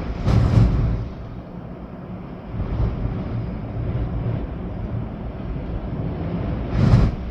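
Storm wind gusting through trees with rain, the wind buffeting the microphone as a low rumble. Two stronger gusts come about half a second in and near the end.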